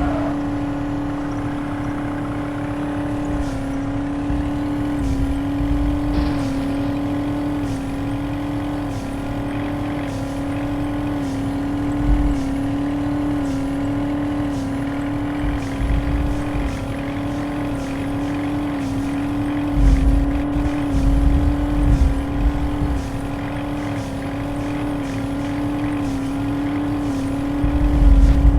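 Truck engine running steadily with a strong droning tone that dips slightly about every second and a half, and heavier low rumbles surging now and then.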